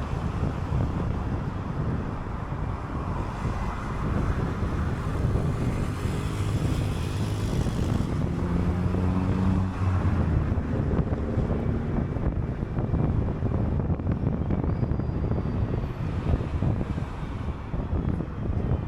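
City bus under way: engine running and road rumble, with the engine note standing out for a few seconds midway.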